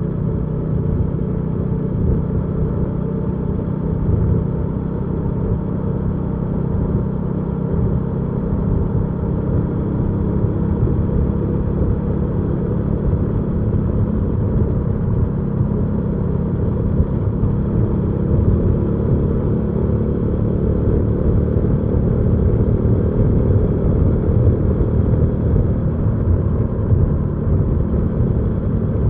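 Hyosung GV300S Aquila motorcycle's V-twin engine running steadily while being ridden, with a deep, even note that grows a little louder in the second half.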